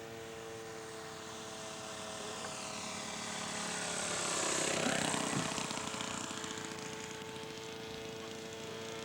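Radio-controlled scale model airplane's engine passing close by in flight, growing louder to a peak about five seconds in, then falling away with a drop in pitch as it goes past. A steady droning tone holds underneath throughout.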